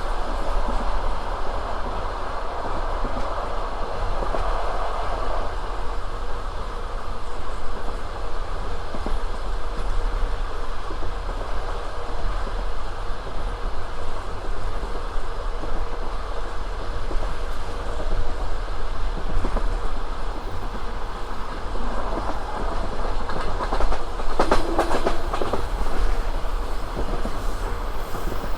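Passenger train cars running along the line: a steady rumble with the clickety-clack of wheels over the rail joints. A few sharper knocks come about 24 seconds in.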